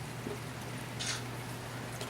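Heavy rain falling, heard through an open window as an even hiss over a low steady hum, with a short rustle about a second in.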